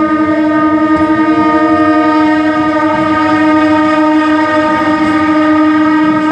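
Indian Railways train horn sounding one long, loud blast at a steady pitch.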